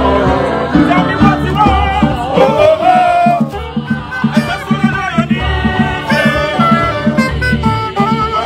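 Ogene band music: singing over a fast, steady beat of drums and percussion.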